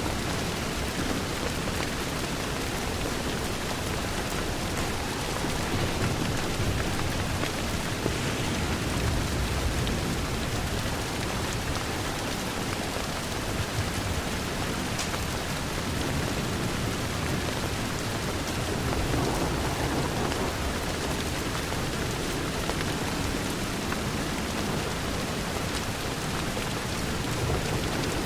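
Steady heavy rain pattering on window glass, an even hiss with a low rumble underneath that swells a little a couple of times.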